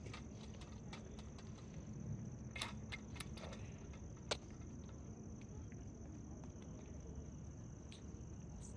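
Insects chirring: a steady, high-pitched continuous drone, with a few faint clicks scattered through it.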